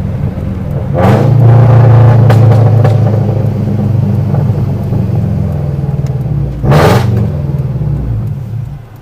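Scion FR-S's 2.0-litre flat-four through a straight-piped Tomei exhaust, loud: the engine note jumps up about a second in and holds a deep drone, then eases off. Faint crackles come about two and a half seconds in and a sharp pop near seven seconds, before the note dies down near the end.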